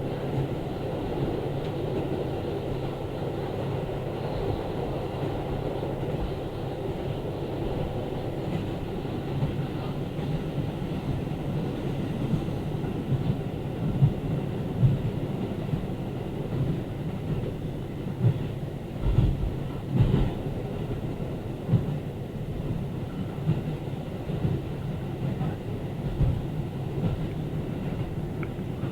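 Diesel railcar of a local train running along the line, heard on board: a steady rumble of engine and wheels on rail, with a few heavier thumps around the middle.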